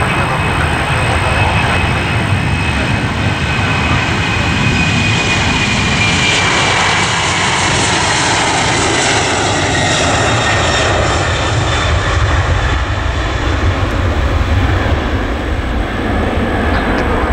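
Boeing 767-400ER's twin jet engines at takeoff power: a loud, steady rumble with a high whine that falls in pitch about halfway through as the airliner goes past.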